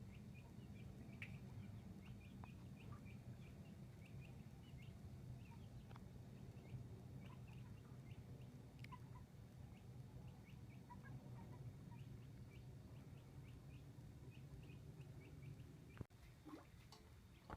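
Faint bird chirps, many short calls scattered throughout, over a steady low rumble, with a sharp click about sixteen seconds in.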